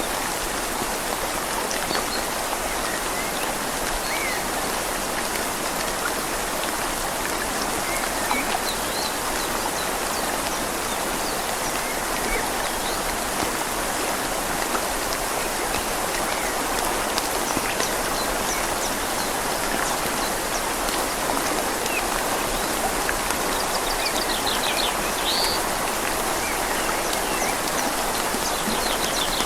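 Steady rain falling on leaves together with the continuous rush of a flowing river. Faint bird chirps come through now and then, with a short run of them near the end.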